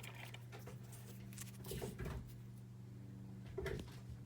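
Small objects being handled on a cabinet shelf: a few short, soft knocks and rustles, at the start, about two seconds in and near the end, over a steady low hum.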